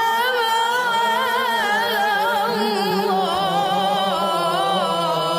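A solo voice chanting in a melismatic style, its pitch winding through continuous ornaments and trills, over a steady low drone.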